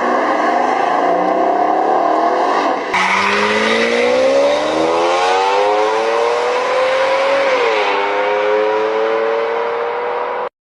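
V12 car engine accelerating hard, its note climbing steadily in pitch, briefly dropping at an upshift about three-quarters of the way through, then climbing again. The sound changes abruptly about three seconds in, like a cut between two clips.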